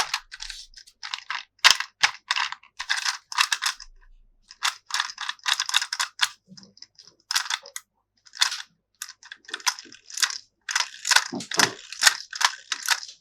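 Plastic toy parts and packaging being handled: clusters of quick clicks and crinkles, with short pauses between them.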